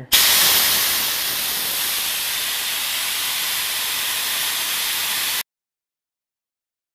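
Compressed air hissing out of the air compressor's tank in a loud, steady rush that starts abruptly and cuts off suddenly about five seconds in.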